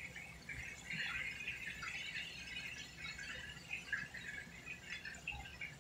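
Pork chops frying in hot grease in a skillet: a quiet, steady sizzle with irregular small crackling pops.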